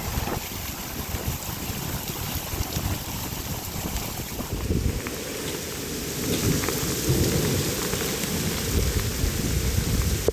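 Heavy rain falling, with a low rumble under it that grows louder over the second half.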